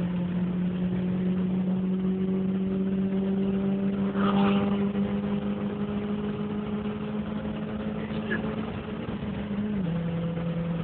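Car engine heard from inside the cabin, pulling at full throttle in one gear with its revs climbing slowly, then an upshift near the end drops the pitch.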